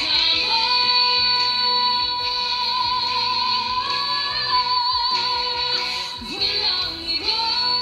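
Female vocalist singing a Filipino pop ballad over a band backing. She holds one long high note for about four seconds, wavering at its end, then slides up into another note near the end.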